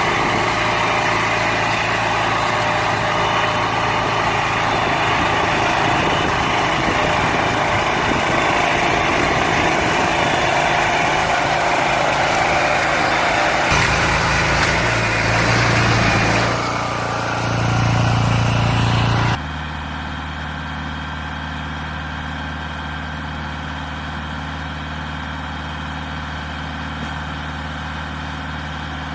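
Tractor and hay baler running, a loud mechanical clatter over the engine. About two-thirds of the way through it cuts suddenly to a quieter, steady engine hum.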